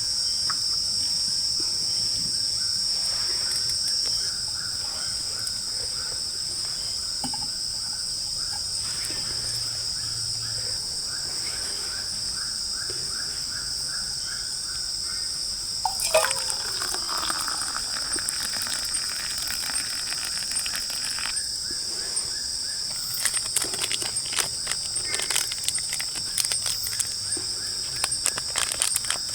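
Tropical forest at night: crickets and other insects chirring in a steady high-pitched chorus. For about the first half a pulsed call repeats about twice a second, a single call slides down in pitch a little past halfway, and scattered clicks and crackles come near the end.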